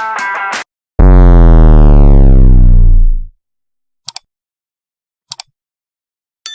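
Rock music that cuts off abruptly, followed after a short gap by a loud electronic 'power-down' sound effect whose pitch falls steadily for about two seconds before fading out.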